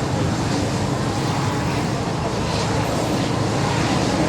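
A steady, even rumble of engine noise with no distinct events.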